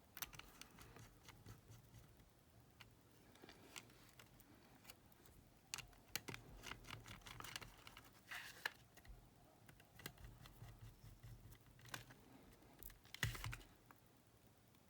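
Irregular small clicks and taps of an Aiwa WR70 cassette player and its parts being handled and fitted back together, with a louder clatter near the end.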